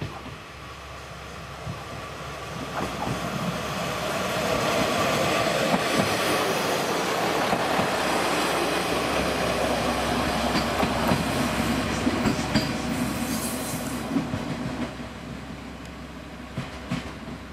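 Diesel railcar on the JR Dosan Line running on the rails. It grows louder over the first few seconds and fades near the end, with the wheels squealing on the rails.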